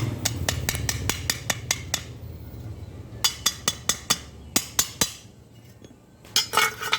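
Sharp metal-on-metal taps and clinks, about five a second at first and then in scattered runs, over a low hum for the first two seconds. A short, rough burst of noise comes near the end.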